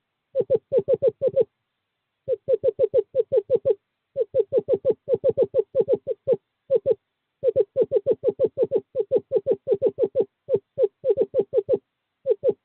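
Male screech owl giving a fast series of short, low hoots, about seven a second, in bursts broken by short pauses: a courtship call to the female.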